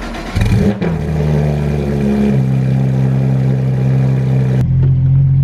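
Porsche 991.2 GT3 RS flat-six with a straight-piped exhaust just after starting: a quick rev flare, then a steady high idle whose pitch steps down about two seconds in.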